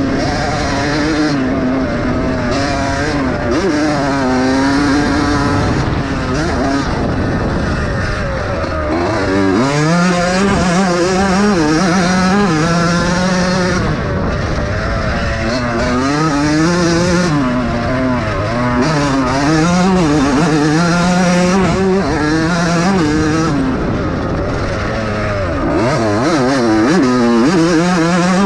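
Several vintage motocross bikes racing, their engines revving up and down through the gears so that the pitch keeps rising and falling, several engines overlapping. One engine grows louder about ten seconds in.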